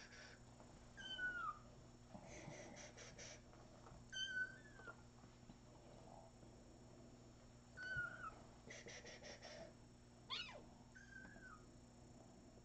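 A young kitten mewing faintly: about five short, high-pitched mews, most falling in pitch, spaced a few seconds apart. Between them come two short patches of quick, faint ticking.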